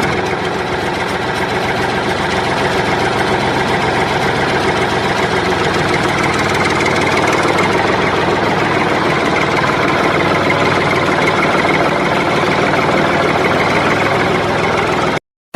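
Engine idling steadily, then cutting off abruptly near the end.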